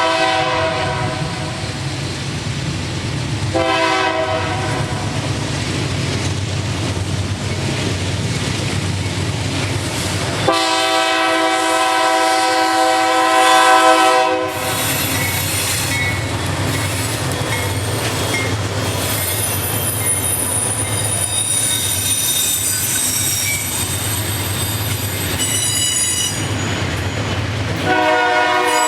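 Freight train passing: diesel locomotive horn blasts over a steady rumble of locomotive and rolling cars. There is a short blast about 4 seconds in and a long blast from about 10 to 14 seconds, and the horn sounds again near the end. A high squeal of wheels on the rails runs through the second half.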